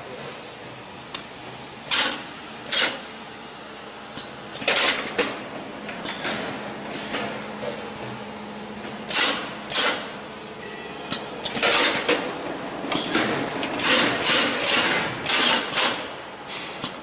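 Paste packaging machine running, with irregular sharp mechanical clacks and knocks from its moving parts. The clacks come more often in the last few seconds.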